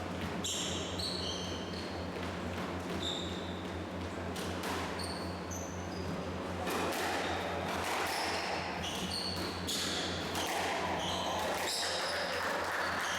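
A squash rally: the ball cracks off rackets and the walls again and again at irregular intervals, mixed with many short, high squeaks of court shoes on the floor. A steady low hum runs underneath.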